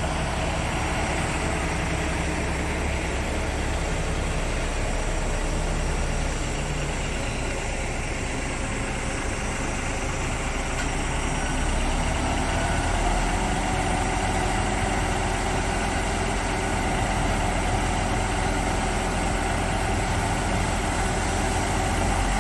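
Heavy diesel engine of a Doosan DX550LC-7 excavator running steadily at idle, picking up slightly about halfway through.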